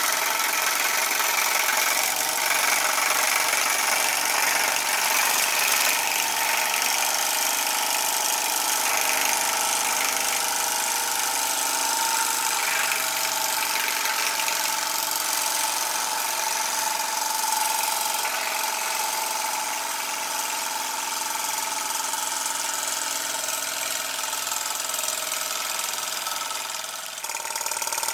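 Homemade TTB V2 stationary model steam engine running steadily on live steam, its flywheel spinning.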